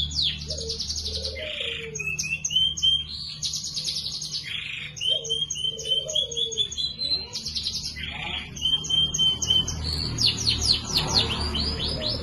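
Domestic canary singing without pause: fast trills of quick falling notes alternating with runs of short, level whistled notes.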